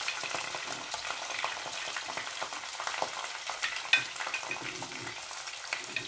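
Sliced onions, green chillies and curry leaves frying in hot oil in a non-stick pan: a steady crackling sizzle, with one sharp tap about four seconds in.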